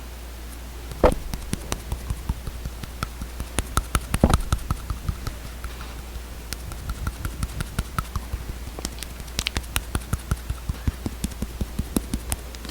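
Close-miked ASMR clicking and tapping: an irregular run of sharp little clicks, several a second, starting about a second in over a faint low hum.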